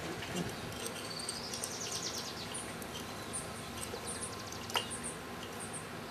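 Outdoor wildlife ambience: a bird's quick trill that rises and then falls, starting about a second in, among short high chirps repeating roughly once a second, with a single click near the end.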